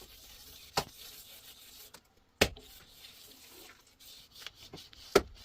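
A series of sharp knocks: three loud strikes spaced roughly two seconds apart, with a couple of fainter knocks between the last two and a faint hiss underneath.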